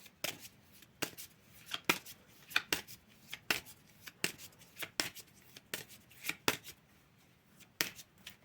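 Tarot cards being shuffled and handled: a run of sharp, irregular card snaps and taps, about two a second, thinning out near the end.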